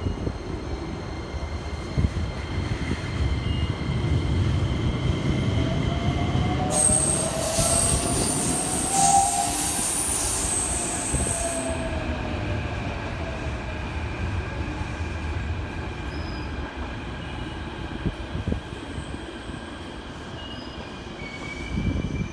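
Keikyu 1000-series electric train pulling out of a station, rumbling along the track. From about a third of the way in to about halfway, a high squeal rises over it together with a whine that glides up and back down in pitch. The rumble then fades slowly.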